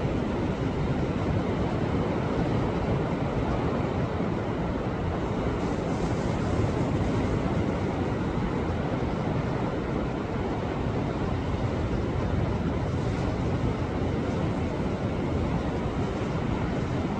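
Sea waves washing against a rocky shore: a steady, deep rushing surf noise that swells only slightly, with no single sharp crash standing out.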